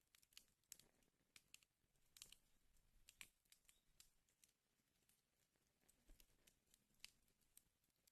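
Faint crackling of a wood fire burning in a fireplace: irregular small pops and snaps, with sharper cracks about three seconds in and again about seven seconds in.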